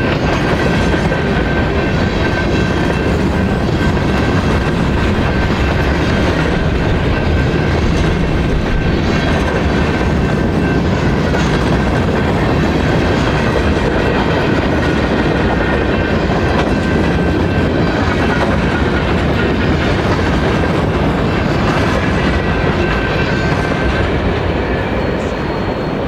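Railway cars rolling past at close range, wheels clattering steadily over the rails, with a faint high steady ring; the noise eases slightly near the end.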